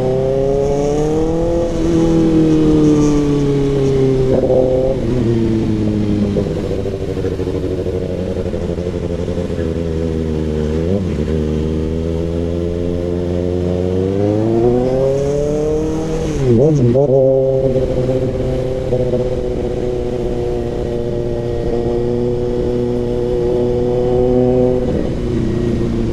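Kawasaki ZX-6R inline-four engine through an SC Project CRT exhaust while riding. The revs climb, ease off and hold low and steady, then climb again. Past the middle there is a brief sharp dip and recovery, and after it the engine runs at steady revs.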